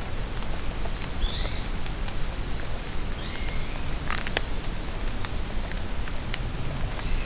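Steady rain falling in a forest, with single drops ticking close by. Songbirds call over it in short high chirps and trills, several times.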